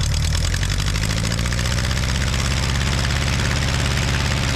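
Aeronca 7AC Champ's engine and propeller heard from inside the cockpit, running steadily; about a second in the sound grows harsher as power comes up, consistent with the start of the takeoff run.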